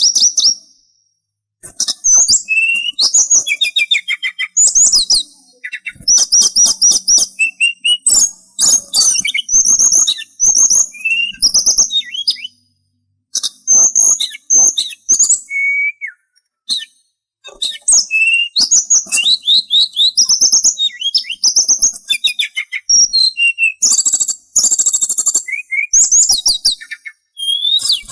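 Sulingan songbird singing a fast, varied song of high chirps, slurred whistles and trills, in phrases broken by short pauses.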